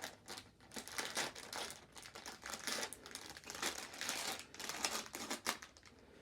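Packaging being opened by hand: irregular crinkling and rustling throughout, with some tearing.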